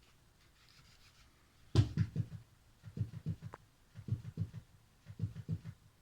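A cat scuffling and thrashing at something: one sharp knock about two seconds in, then several short bursts of quick soft thumps.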